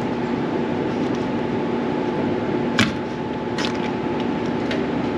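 Hand tools working the old pinion seal out of a rear differential: one sharp metallic click about halfway through and two fainter clicks later, over a steady background hum.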